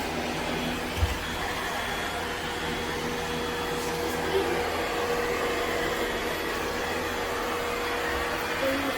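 Ecovacs Deebot X9 Pro Omni robot vacuum running: a steady whir with a held mid-pitched tone, and a brief low thump about a second in.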